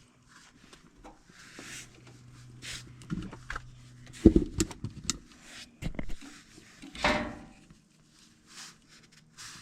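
Scattered knocks, bumps and rustling from someone handling things, loudest a thump about four seconds in and another noisy knock about seven seconds in. A faint steady low hum stops at the first thump.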